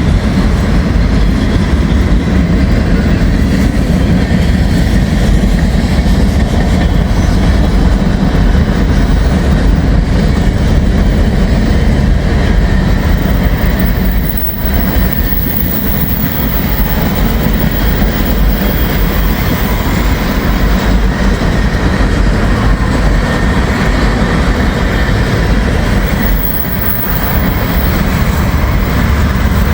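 Freight train cars rolling past on the rails: a loud, steady rumble and rattle of wheels and cars that eases briefly twice.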